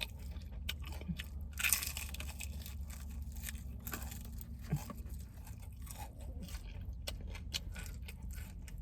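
A person biting and chewing crispy fried chicken close to the microphone: a run of small crisp crackles, with a louder crunchy bite about two seconds in.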